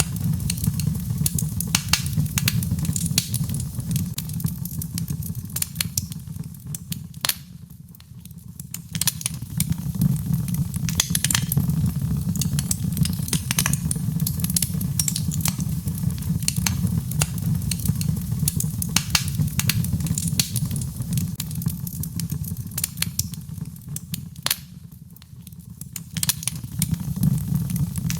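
Birchwood fire burning in a fireplace, crackling with frequent sharp pops over a steady low rumble that briefly fades twice.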